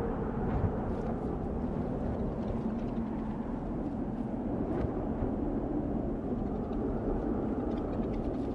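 Desert wind blowing steadily: a low, even rushing with faint light ticks now and then.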